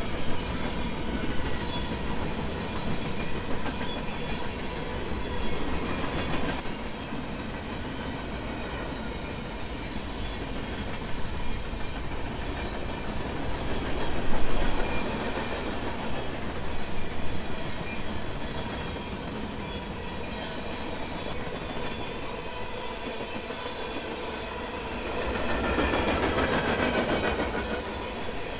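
Freight train rolling past, with the steady rumble and clatter of its cars on the rails. It swells louder about halfway through and again near the end.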